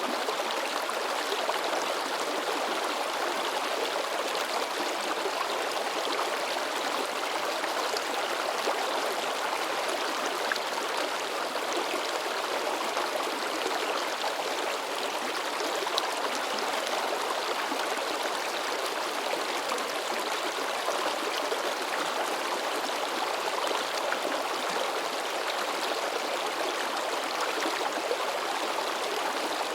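A river babbling and splashing over rocks, a steady rushing of water with no change.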